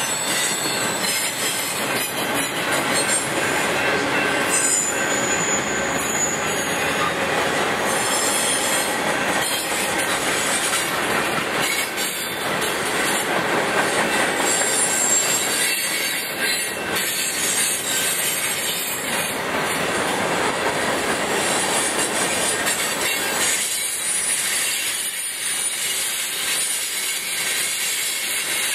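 Freight cars of a manifest train rolling past: a steady rumble and clatter of steel wheels on the rail joints, with thin, high wheel squeal coming and going.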